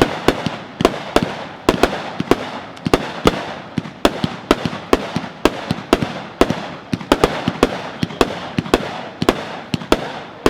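Ape Escape 30-shot consumer fireworks cake firing: a rapid string of sharp bangs, about three a second, with the noise of bursts and echoes filling the gaps between them.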